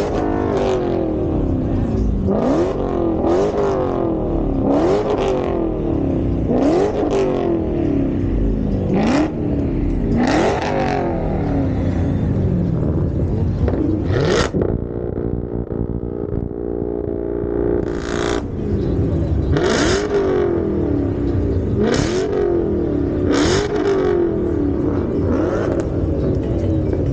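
A car engine revved over and over, each rev climbing and dropping back within a second or two, with a short rasp at the top of many revs. About halfway through it settles briefly to a steady idle, then the revving starts again.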